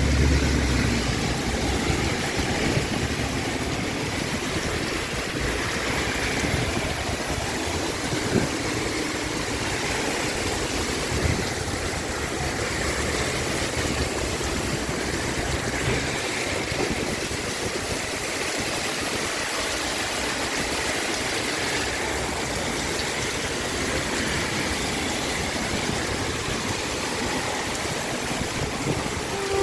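Heavy rain pouring down in a steady rushing hiss, with a low rumble underneath that fades about halfway through.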